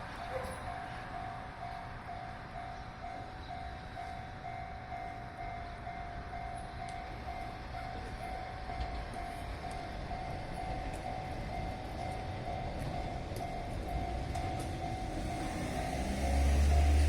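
A Japanese level crossing bell ringing in steady, even pulses while a Keihan 600 series two-car electric train approaches, its rumble growing and becoming loud near the end.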